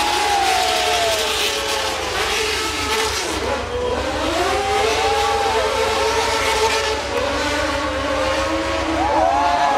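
A stunt-show vehicle's engine revving. Its pitch falls away over the first two seconds, climbs again about four seconds in and holds, then jumps in one quick rev near the end.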